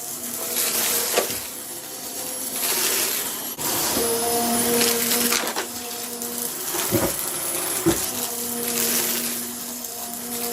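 Vacuum cleaner running with a steady motor hum. Its rushing hiss swells and fades every couple of seconds as it is pushed back and forth fast, and a few sharp clicks and rattles come through.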